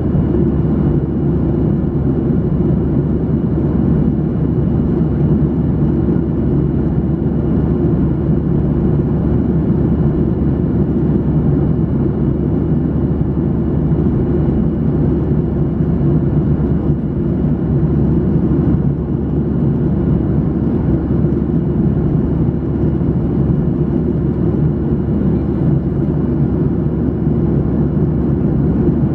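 Steady in-cabin noise of a Boeing 737-800 in flight: the even rush of engines and airflow, deep and unchanging, with a faint steady high whine above it.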